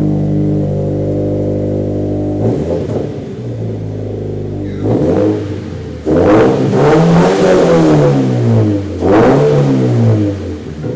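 Subaru BRZ's flat-four engine through a muffler-delete exhaust: a steady idle, then a few blips of the throttle and several big revs about six to ten seconds in, the pitch climbing and falling back with each one. It is really loud.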